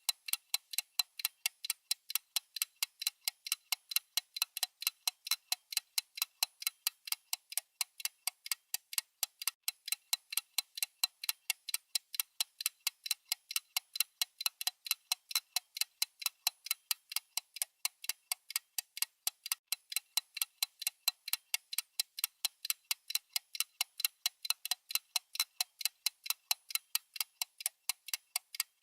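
Clock ticking sound effect of a countdown timer: steady, evenly spaced, crisp ticks that carry on at the same pace and level throughout.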